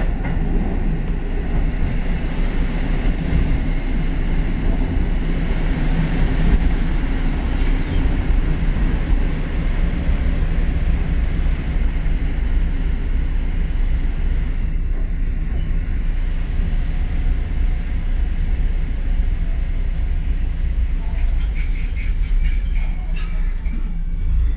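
A Kotoden 1080-series electric train heard from inside the cab, running along the track with steady wheel and motor noise. Near the end a thin, high squeal comes in as the train slows to a stop.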